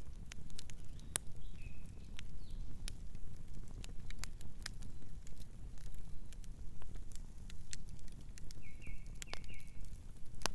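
Wood fire crackling, with sharp pops scattered throughout over a steady low hiss of burning. A distant bird chirps briefly about a second and a half in, then gives a short run of chirps near the end.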